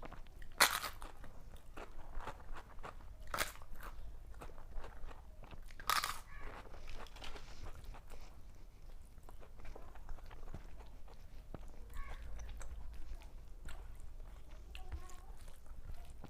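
A person biting into crisp food and chewing it close to the microphone: three loud, sharp crunches in the first six seconds, then softer crackling chews.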